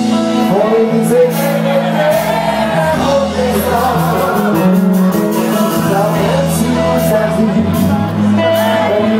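Live band playing amplified konpa music with a steady bass line and regular percussion, with singing over it.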